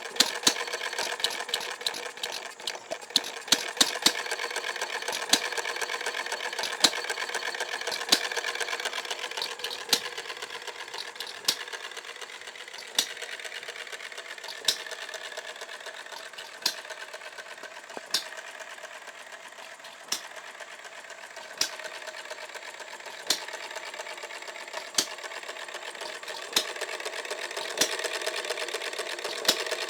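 Red Wing model hit-and-miss engine running: a fast, light clatter from the coasting engine, with a sharp pop each time it fires. The pops come several in quick succession at first, then settle to about one every one and a half to two seconds, because the governor holds the exhaust valve open so that the engine skips strokes between firings.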